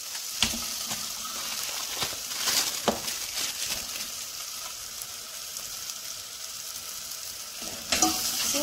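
Chopped onions and spices sizzling in a stainless steel pot as a metal spoon stirs and scrapes through them, with a few sharp clicks of the spoon against the pot.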